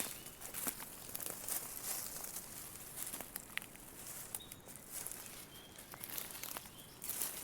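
Dry autumn leaves rustling and crackling in a light breeze, dotted with irregular small clicks, with a few faint short bird chirps.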